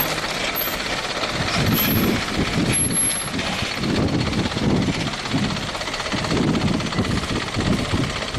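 Heavy truck engine labouring under load, its low rumble swelling and easing about once a second, as a truck loaded with sugarcane works through mud.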